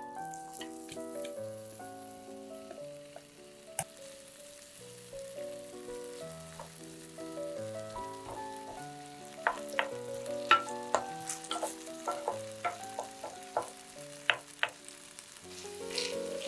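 Shredded potato sizzling in hot olive oil in a frying pan, a steady hiss with sharp crackling pops that come thick and fast from about halfway through. Background music with a simple stepping melody plays throughout.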